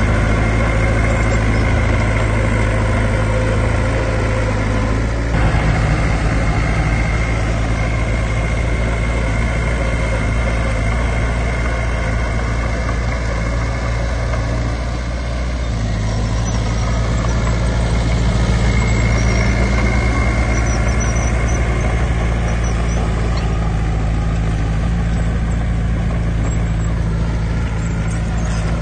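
Heavy diesel earthmoving machinery running steadily. The engine note changes about five seconds in and again around fifteen seconds.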